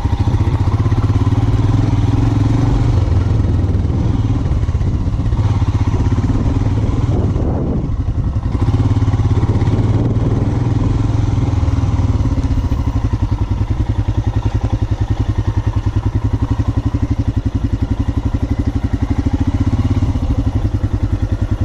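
Royal Enfield Himalayan 411's single-cylinder engine running at low revs under load, its firing pulses steady. It eases off briefly about eight seconds in, then pulls again.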